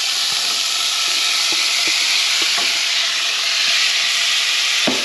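Black beans frying loudly in a hot pan with toasted garlic and spices, a steady sizzle, stirred with a spoon that ticks lightly against the pan now and then.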